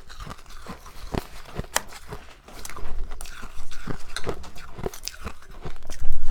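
Close-miked biting and chewing of soft, powdery freezer frost, a run of irregular sharp crunches that grows louder midway and is loudest near the end.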